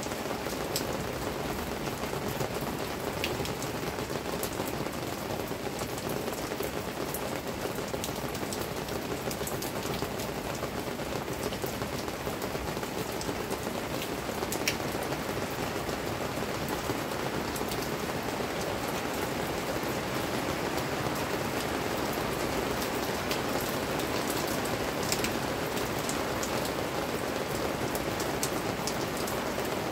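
Steady rain falling, an even hiss with scattered sharper drop ticks, a few of them standing out above the rest.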